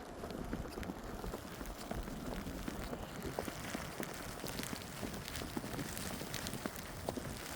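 Footsteps crunching through fresh snow, a dense irregular crackle of small clicks over a steady hiss.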